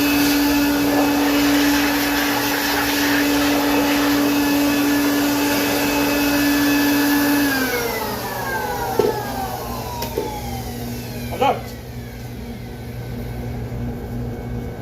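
Electric air blower running steadily with a whine, then switched off about halfway through, its pitch falling as it winds down. A few short knocks follow.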